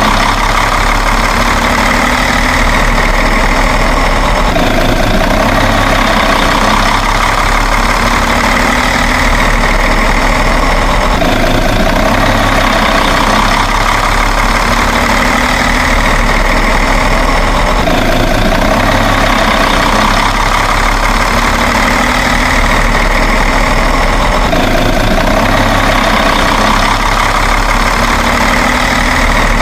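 A truck-like engine idling steadily, its sound repeating in the same pattern about every six to seven seconds, like a looped engine track.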